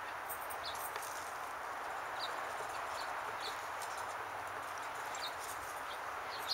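A small bird chirping, short high chirps repeated irregularly about once or twice a second, over a steady outdoor hiss.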